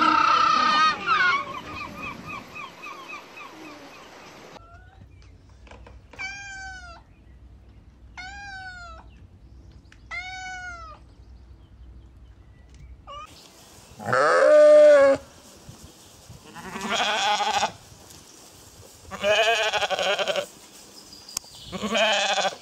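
A series of animal calls: three short arching calls near the middle, then four loud, wavering cries spaced a couple of seconds apart in the second half.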